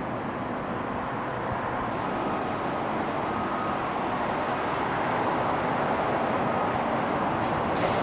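Jet airliner engines running, a steady roar that grows gradually louder.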